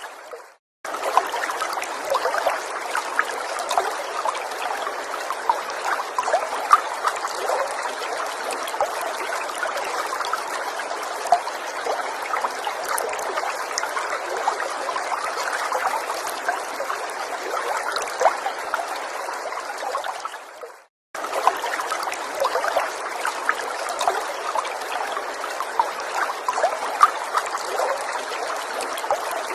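Gentle forest stream trickling and babbling steadily. It fades out into brief silence twice, just under a second in and again about 21 seconds in, then resumes.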